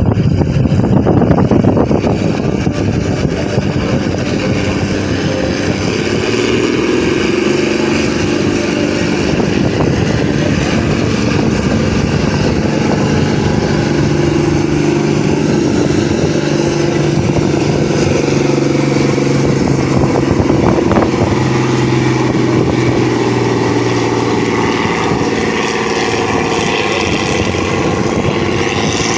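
Farm tractor engine running loud under heavy load, pulling a weight sled in a tractor pull, with a steady pitch that shifts only slightly.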